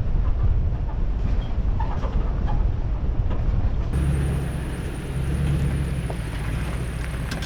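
Vehicle driving on a rough dirt road: a low rumble with scattered knocks and rattles. About four seconds in, it gives way to a steadier low drone.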